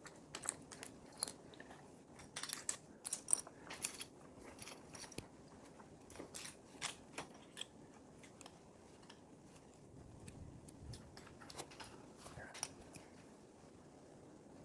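Plastic LEGO pieces clicking and rattling as they are picked through and pressed together, in scattered sharp clicks that come thickest in the first few seconds.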